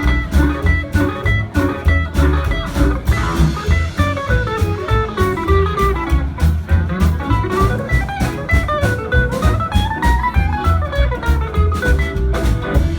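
Live band playing an instrumental break in a boogie song: a lead instrument runs quick lines of single notes up and down over a steady bass and drum beat.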